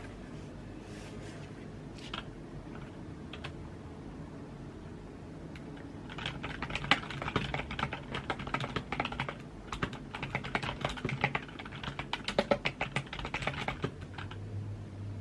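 Typing on a computer keyboard: a few scattered keystrokes, then a fast run of typing starting about six seconds in, with a brief pause midway, that stops shortly before the end.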